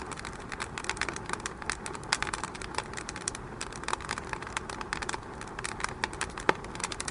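Wood fire burning in a fireplace, crackling with dense irregular snaps and pops over a steady hiss, with a louder pop about six and a half seconds in.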